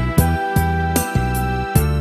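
Saxophone playing the melody of a slow Korean ballad over a backing track with keyboard, bass and a steady drum beat.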